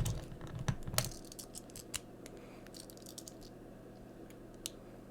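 Small plastic toy parts clicking and snapping as a Transformers figure is folded into its car mode: a quick run of clicks in the first second or so, then a few sparse ticks.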